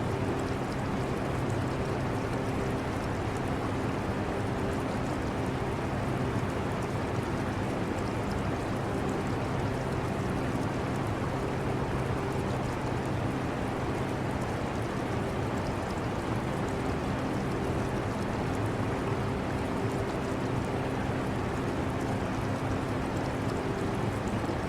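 Air conditioner running steadily, a constant airy rush with a low hum, mixed with the trickle of an aquarium's water.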